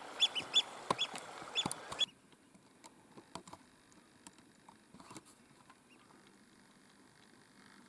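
Repeated sharp alarm calls of an agitated wading bird, about two or three a second, over wind noise on the microphone. Both stop abruptly about two seconds in, leaving only faint clicks.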